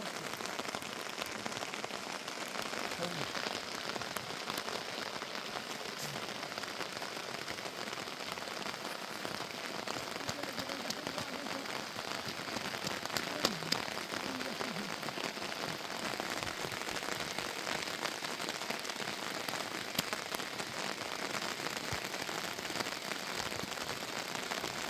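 Steady heavy rain falling, with many small sharp drop hits through it and a couple of louder taps about thirteen seconds in.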